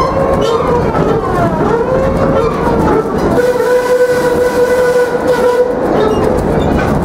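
Cedar Point & Lake Erie Railroad steam train running, with a rumbling noise under high ringing tones. The tones glide up and down at first, then hold one steady note for a couple of seconds midway.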